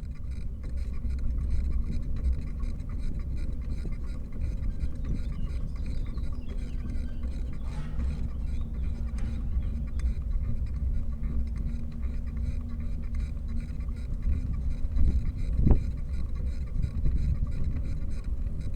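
Wind buffeting the microphone over a steady low rumble of travel, with a faint steady hum underneath. A brief rising squeak comes near the end.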